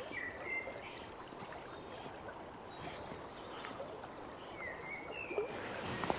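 River running high after rain: a steady rush of fast water, with a few short, high bird chirps near the start and again towards the end.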